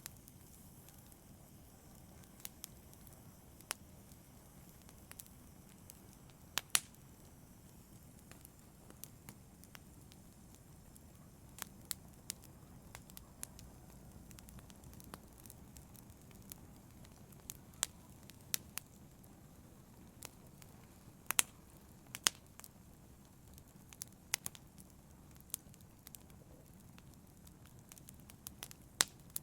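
Wood fire burning in a fireplace: a steady low rumble of flames with sharp, irregular crackles and pops, a few louder snaps among them.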